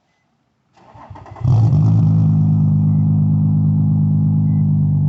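Nissan 350Z's 3.5-litre VQ V6 cranking about a second in, catching with a brief flare, then settling into a steady, deep idle.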